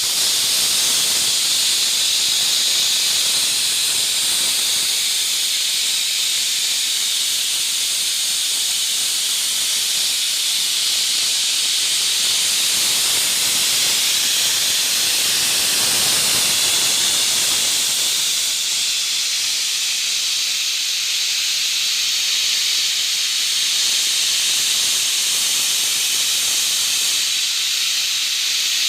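Steam hissing steadily from a small tofu-making steam boiler. The hiss swells fuller for a few seconds around the middle.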